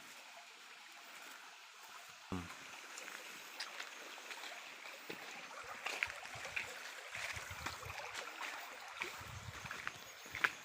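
Steady running water, with scattered small clicks and crackles.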